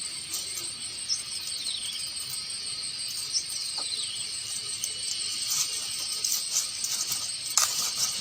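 Birds calling over a steady high drone of insects: two falling whistled calls early on, then scattered short high chirps, busiest near the end.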